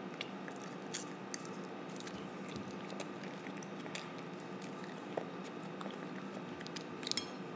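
A child chewing a mouthful of teriyaki chicken with small wet mouth clicks, over a faint steady room hum. A few sharper clicks come near the end.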